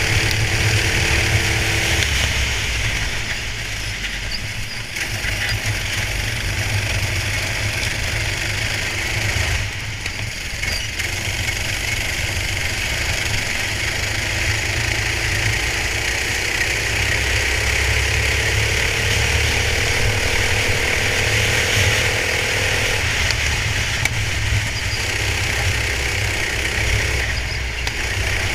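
Racing kart engine running on track, with hiss of wind and spray over the onboard microphone; a faint engine tone climbs slowly for several seconds in the second half, then cuts off.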